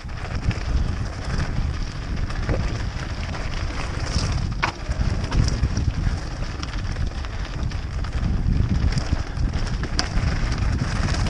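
Wind buffeting the microphone of a GoPro Hero4 Session on a 2006 Specialized Stumpjumper FSR mountain bike riding at speed, with tyre and trail noise and a few sharp clicks and rattles from the bike, two of them standing out about five and ten seconds in.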